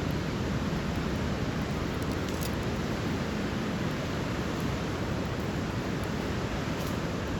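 Steady rushing outdoor noise, even and unbroken, with a few faint ticks.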